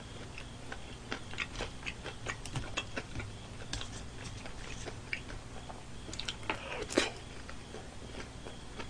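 Chewing mouthfuls of fried chicken, with many small irregular clicks and one louder click about seven seconds in.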